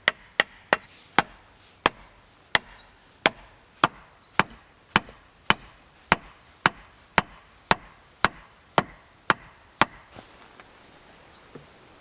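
Wood being chopped with a blade: sharp, regular strokes about two a second that stop near the end, with birds chirping in the background.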